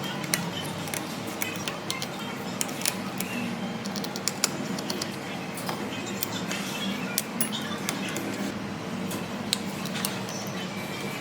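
Irregular light clicks and taps of small repair tools at a workbench, over a steady low hum.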